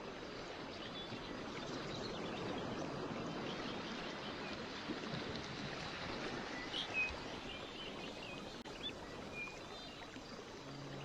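Running water, a steady rush, with small birds chirping now and then over it. Soft music with low held notes comes in at the very end.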